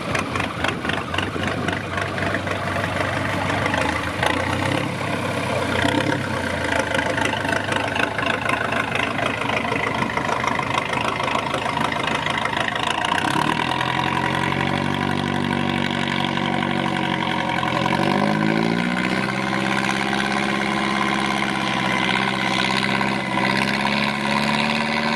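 Heavy off-road truck's engine working hard. Its pitch climbs about halfway through, climbs again a few seconds later, and then holds steady at higher revs.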